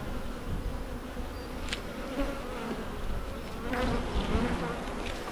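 Honey bees buzzing steadily around an opened hive. The buzzing swells for a moment about four seconds in, and there is a single light click about two seconds in.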